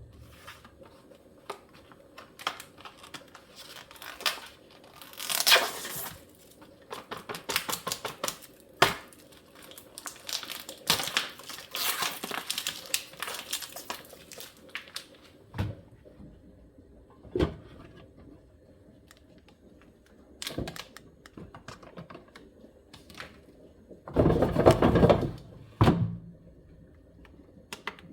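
Kitchen food preparation: scattered knocks and clicks of utensils on hard surfaces, with a quick run of clicks in the middle and two longer scraping or rushing noises, about five seconds in and near the end.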